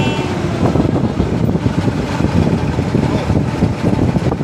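Boat engine running, with wind buffeting the microphone in an uneven rumble.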